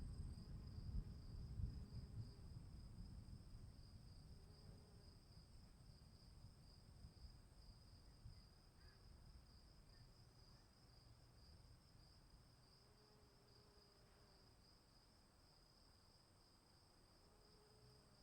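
Crickets chirping in a steady, fast-pulsing high trill, faint, over a low rumble that fades away during the first half.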